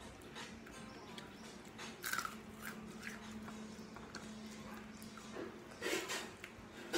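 Person chewing raw vegetables close to the microphone, with a few short crisp bites and mouth sounds, the loudest about two seconds in and again near the end, over a faint steady hum.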